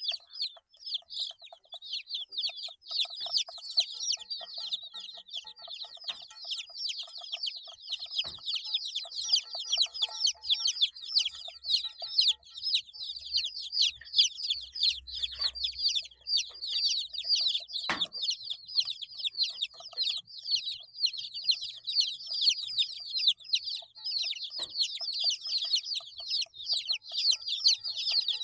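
A brood of 8-day-old chicks peeping continuously, many high, short chirps overlapping, with an occasional soft knock.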